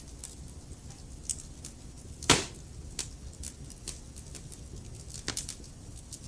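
Wood logs burning in a fireplace, crackling with scattered sharp snaps over a low steady rumble of the flames. One loud pop comes a little over two seconds in, and a couple of smaller snaps come close together about five seconds in.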